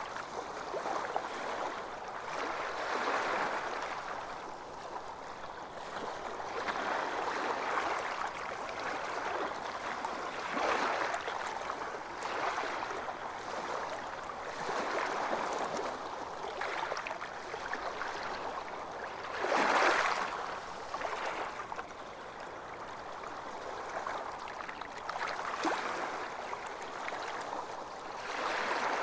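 Small ocean waves washing onto a beach, a steady wash that swells and ebbs every few seconds, loudest about twenty seconds in.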